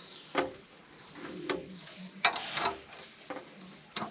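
A few separate sharp clicks and clinks of hand tools on motorcycle parts as fittings are unbolted and taken off, with pigeons cooing.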